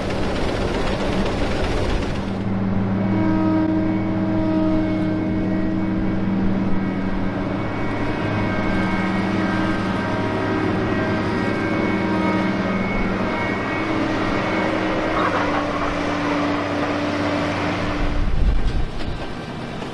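A large engine running steadily, a hum of several steady tones over a rushing noise. The hum comes in about two seconds in and drops away a couple of seconds before the end, leaving only the rushing noise.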